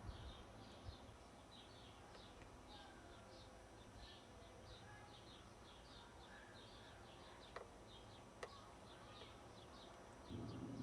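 Faint, high bird chirps repeating evenly about two or three times a second, with two sharp clicks late on.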